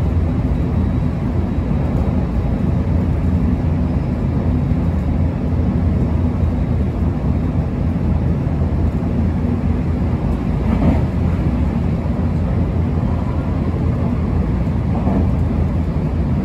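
Running noise inside a JR Kobe Line Special Rapid Service electric train: a steady low rumble of wheels on rail.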